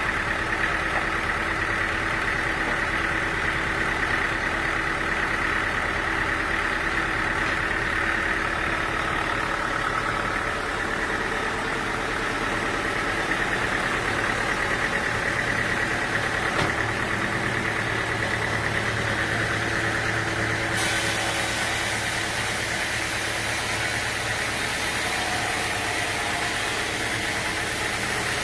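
Sawmill machinery running steadily: a motor drone with a steady high whine over it. Partway through, the sound suddenly turns hissier.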